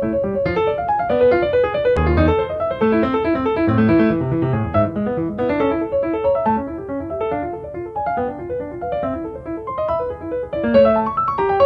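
Background piano music: a flowing melody of quick, separate notes over a light accompaniment.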